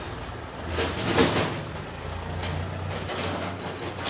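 A passing train: a steady low rumble under a noisy rush, loudest about a second in.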